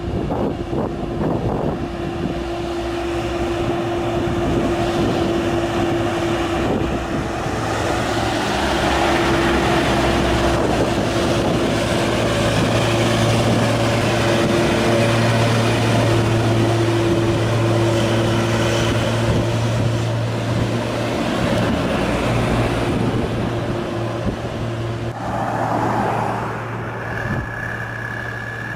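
Heavy diesel truck engine running under load on a climb, a steady low drone that grows a little louder midway. A steady high tone joins near the end.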